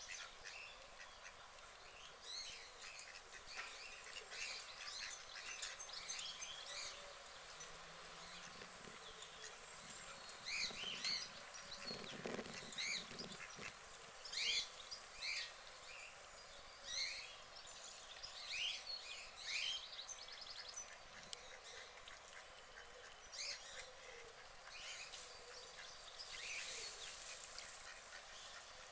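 White domestic ducks calling on a pond: short quacks and calls at irregular intervals, some louder ones in the middle.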